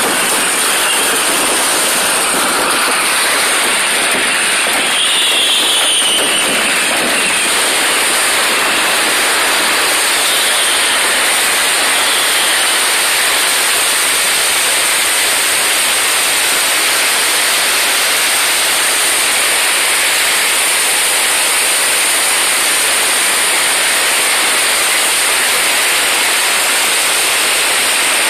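Fireworks crackling densely and without pause, a steady loud sizzle like heavy rain, with no single bang standing out.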